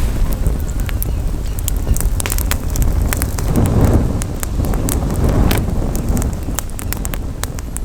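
Campfire crackling with many sharp, irregular pops, over a low rumble of wind on the microphone that swells a couple of times.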